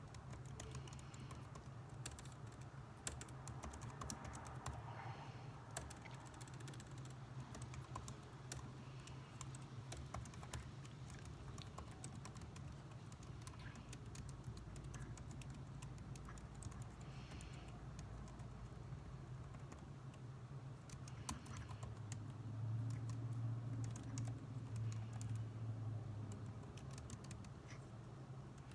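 Typing on a computer keyboard: quiet, irregular key clicks over a steady low hum. About 22 seconds in, a louder low hum swells for a few seconds and then fades.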